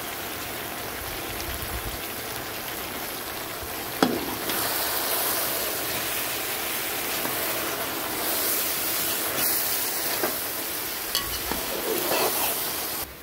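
Food sizzling as it fries in hot oil in a pan: a steady hiss with a sharp knock about four seconds in, after which the sizzle is louder, and a few light clicks later on. It cuts off abruptly at the end.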